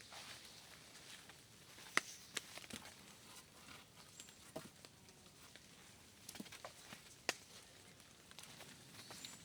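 Scattered sharp clicks and knocks, the loudest about two seconds in and another a little past seven seconds, over a faint steady hiss.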